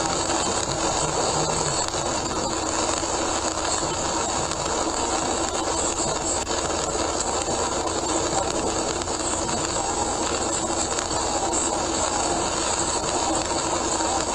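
Steady road and rain noise inside a car on a soaked expressway, picked up by a dashcam: an even hiss of tyres on wet pavement under heavy rain.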